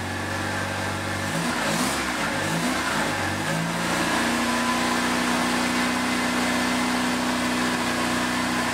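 Triumph Dolomite 1300 four-cylinder engine running just after its first start: idling, then revved up about a second and a half in and held at a steady higher speed, easing back near the end. It sounds not too bad.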